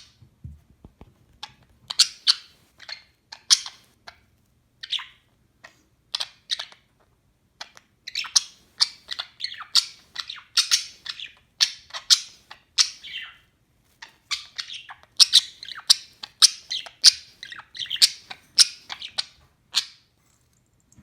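Budgerigar chirping: quick runs of short, high chirps with brief pauses between them, stopping shortly before the end.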